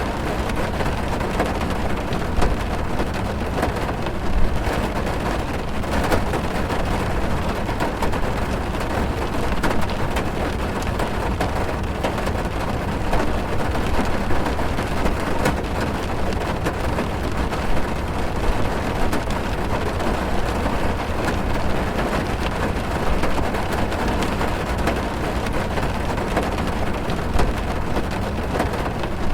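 Heavy rain drumming on a car's roof and windows, heard from inside the car: a steady, deep hiss full of small drop impacts, with a few louder hits.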